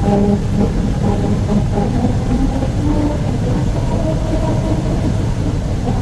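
Truck tyres rolling over the grooves of a musical road, playing a rumbling tune of short notes that step up and down in pitch over the steady road noise.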